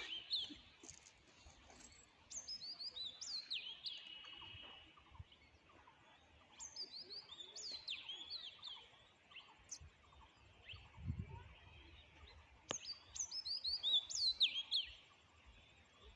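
A songbird singing in four phrases, each a couple of seconds of quick, falling chirps, with short pauses between them. A brief low thud comes about two-thirds of the way in, and a sharp click just before the last phrase.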